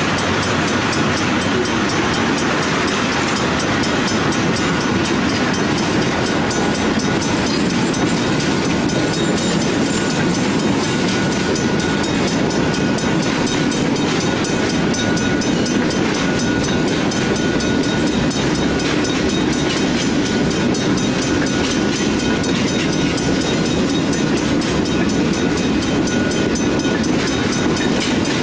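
Canadian Pacific freight train rolling past, its cars' wheels on the rails making a steady, unbroken noise.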